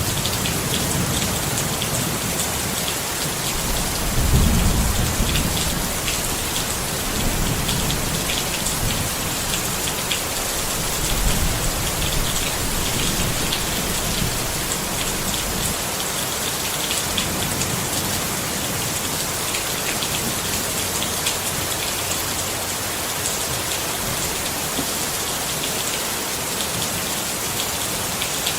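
Steady rain pattering on a tent, with many close drops ticking over a constant hiss. Low thunder rumbles swell about four seconds in and again around eleven seconds, then die away.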